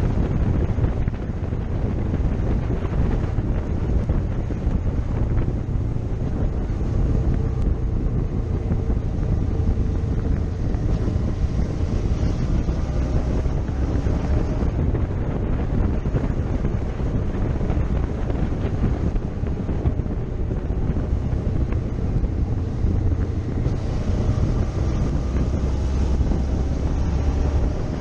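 Wind buffeting the microphone of a moving motorcycle, with the engine running faintly underneath.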